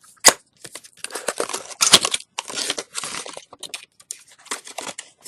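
Puzzle box being opened by hand: irregular crinkling and tearing of packaging, with a sharp snap just after the start and another about two seconds in.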